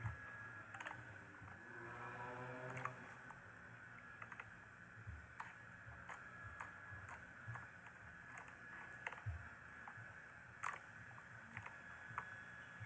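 Faint, irregular clicks and light taps over a low steady hum.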